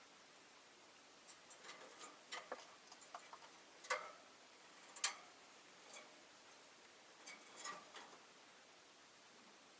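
Faint, irregular light clicks and taps from rosy-faced lovebirds in their cage, the two loudest about 4 and 5 seconds in, over a low steady hiss.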